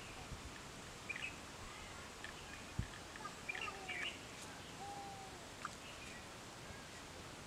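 Birds chirping and calling over a steady outdoor hiss, with short chirps and a few sliding whistled calls, and a soft thump about three seconds in.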